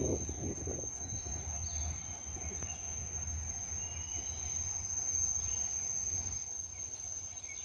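Steady high-pitched drone of insects, with a low rumble under it that fades away near the end.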